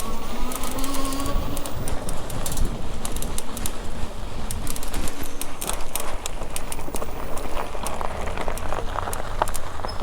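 Wind buffeting the microphone of a camera on a moving bicycle, with steady rumble and scattered clicks and rattles from the ride.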